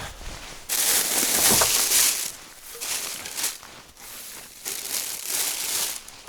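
Rustling and crumpling of old attic junk and papers being rummaged through by hand, in two long spells: one starting about a second in and another near the end.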